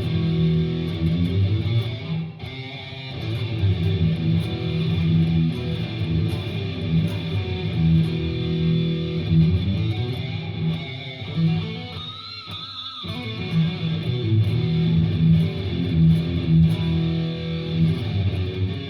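Jackson Warrior electric guitar playing heavy-metal style lead and riffs, continuous notes, with one note bent up and back down about twelve seconds in. The sound is recorded through a phone's microphone.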